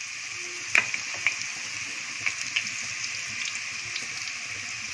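Hot oil tempering sizzling steadily in a pan as coarsely ground chana dal is scraped into it, with a few sharp clicks.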